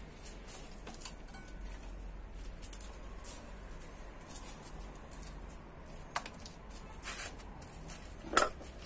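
Faint handling noises: scattered small clicks and rustles over a low steady hum, with one sharp click that rings briefly near the end.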